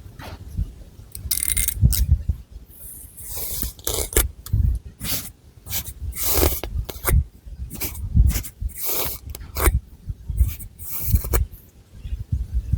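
Long fingernails scratching through thick hair and over the scalp close to the microphone: irregular scratchy strokes, some brief and some drawn out for about a second, with soft low thuds beneath them.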